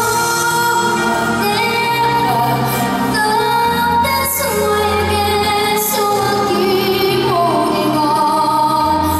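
A young female singer holding long, gliding notes of a ballad over a backing track with bass.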